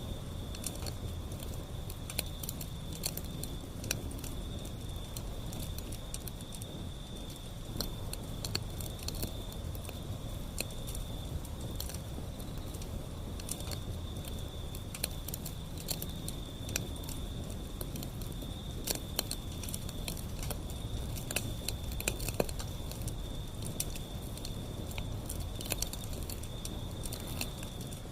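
Wood fire burning, with frequent irregular sharp crackles and pops over a low rumble of the flames. A steady high-pitched tone runs underneath.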